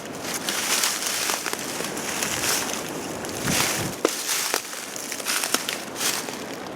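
Footsteps crunching and rustling through dry leaves: swells of crackling every second or two, over steady wind noise.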